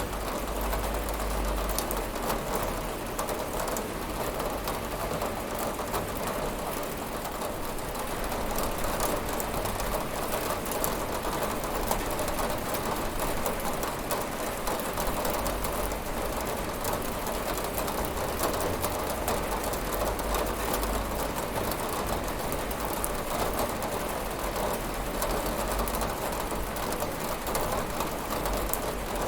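Steady rain falling and pattering on a window, a continuous even hiss with fine drop ticks.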